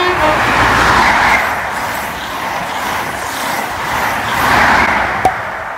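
A train passing through the station at speed: a loud, steady rushing noise that swells twice, with a single sharp click near the end.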